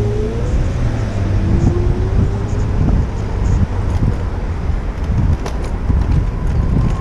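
City street traffic heard from a moving bicycle, with wind buffeting the action camera's microphone as a heavy low rumble. In the first few seconds a passing vehicle's engine rises in pitch as it accelerates, twice.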